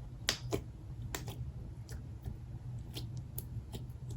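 Slime being squeezed and poked by hand, giving an irregular series of short, sharp wet pops and clicks.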